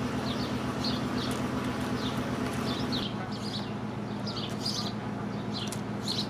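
Small songbirds chirping repeatedly in short, high calls over the steady hum of an idling engine, whose note shifts about three seconds in.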